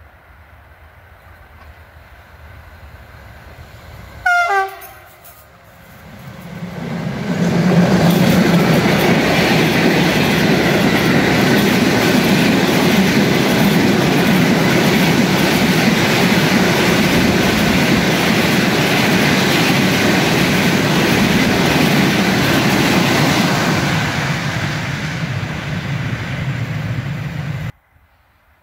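A train gives a short horn blast about four seconds in. It then passes close by, running loud and steady for nearly twenty seconds, easing slightly before the sound cuts off suddenly near the end.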